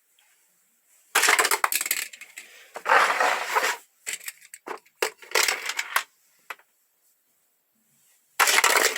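Die-cast toy cars and a plastic Hot Wheels track set clattering in four separate bursts of rattling, each about a second long, with a few sharp clicks between them.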